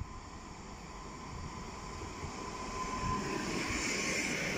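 Electric multiple unit passenger train approaching and running past. Its running noise grows steadily louder, with a thin steady whine over it.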